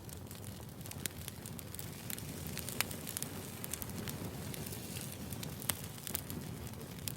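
Burning firewood: a steady low rush of flames with scattered sharp crackles and pops, two of them louder, about three seconds and about six seconds in.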